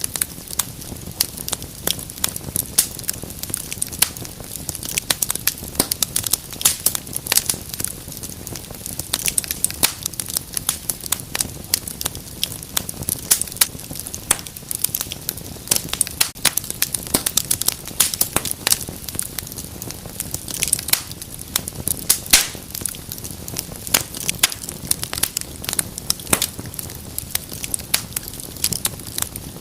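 Wood fire in a fireplace crackling steadily, with dense irregular sharp pops and snaps over a low, even rushing of the flames.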